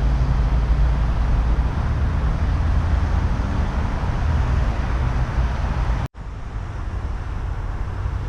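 Steady road and engine noise of a car driving, with a strong low rumble. It cuts off abruptly about six seconds in and gives way to a quieter steady background hum.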